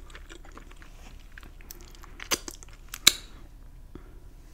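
Close-up eating sounds of crispy fried buffalo chicken: chewing with small wet clicks and crackles, and two sharper crunches about two and a half and three seconds in, the second the loudest.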